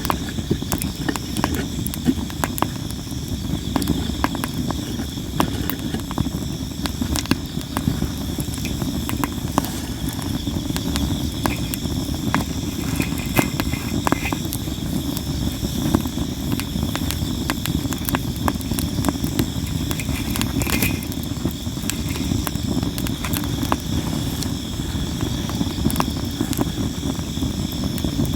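Campfire of sawara cypress wood burning, with constant sharp crackles and pops over a low rumble of flame. Insects trill steadily in the background.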